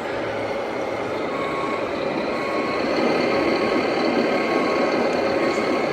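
Radio-controlled model truck's sound unit sounding repeated reversing beeps over a steady truck-engine hum.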